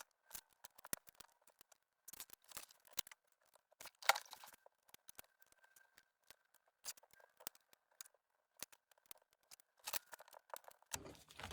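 Faint, scattered clicks and light rustles of plastic Lego pieces being handled and pressed together, with a few sharper clicks, and a faint steady whine through the middle.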